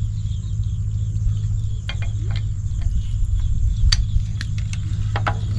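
8 hp diesel pumpset engine running steadily with a low, even drone, with a few light clicks partway through.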